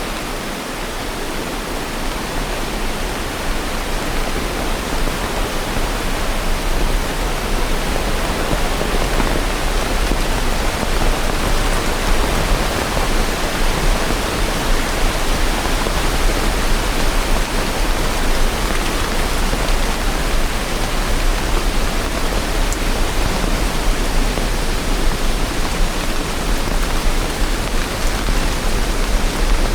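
Steady rain falling: a dense, even hiss with a low rumble beneath it, growing slightly louder over the first several seconds.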